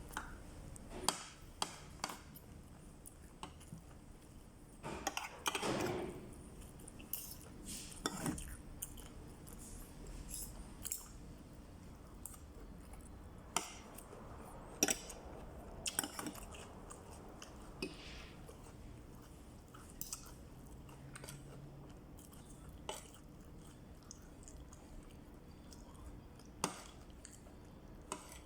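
A person eating soup: chewing, with scattered sharp clicks of cutlery against a dish.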